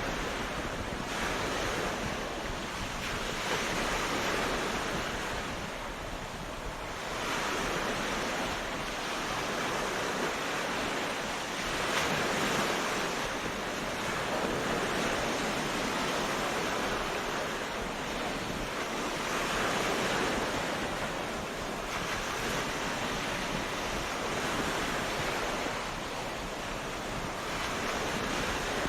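Ocean waves breaking and washing up a beach, in slow surges that swell and ease every few seconds, with wind.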